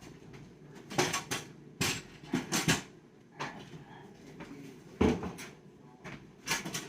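Kitchen handling noise: a series of knocks and clatters from cupboard doors and dishes being moved, loudest about a second in and again about five seconds in.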